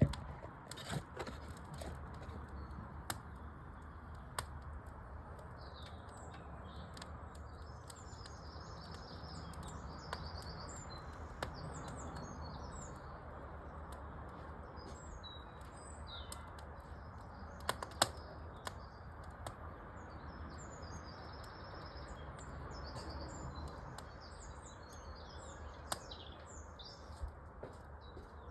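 Wood fire crackling in a fireplace, with scattered sharp pops, the loudest about eighteen seconds in, while small birds chirp and twitter throughout.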